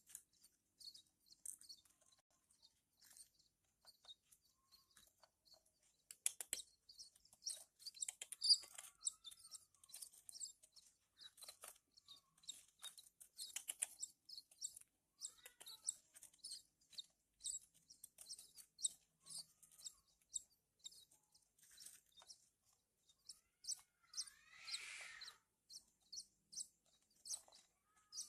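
Javan bush lark (branjangan) chicks cheeping: short high-pitched chirps about one or two a second, in denser bursts at times, the begging calls of nestlings being hand-fed. One longer, lower call comes near the end.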